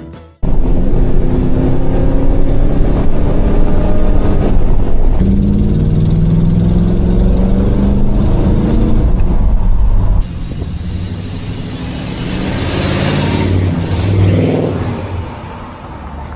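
Car engine running and revving, its pitch rising and falling. It starts abruptly about half a second in, drops in loudness around ten seconds, then swells again near the end.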